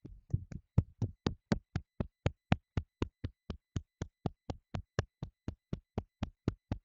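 An open hand clapping rhythmically against the chest, about four even slaps a second, in qigong body-tapping.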